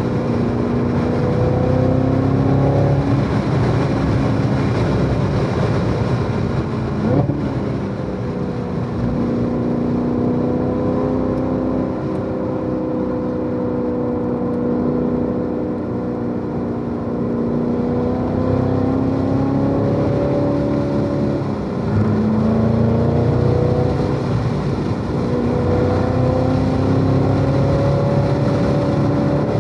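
Supercharged 6.2-litre LT4 V8 of a C7 Corvette Z06 running hard on track, its pitch rising and falling with the revs through the gears and corners. A quick sharp rise in pitch comes about seven seconds in, and a brief drop comes a little past twenty seconds before the engine pulls up again.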